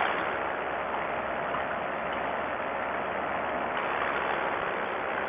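Vittorazi Moster 185 single-cylinder two-stroke paramotor engine and propeller running steadily in flight, mixed with wind rushing over the microphone.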